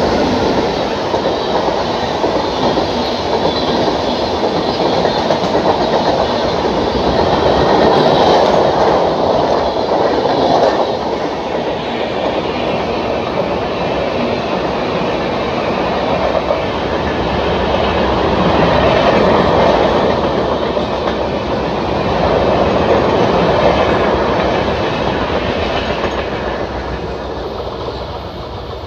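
Express train hauled by a WAP-7 electric locomotive passing at speed without stopping: a continuous rush and clatter of coach wheels over the rails that swells and eases several times, then fades near the end as the last coaches pull away.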